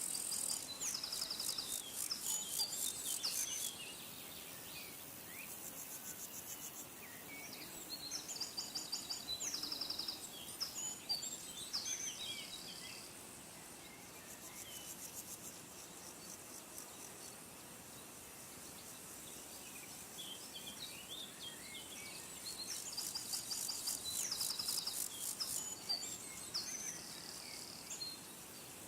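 Wild birds chirping, with short runs of quickly repeated notes, over a faint steady outdoor background. A very high, rapid pulsing trill sounds at the start and again late on.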